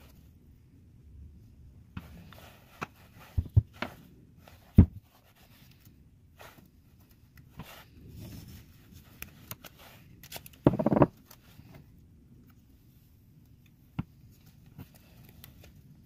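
Scattered clicks and knocks of objects being handled, with a short scraping rustle about eleven seconds in.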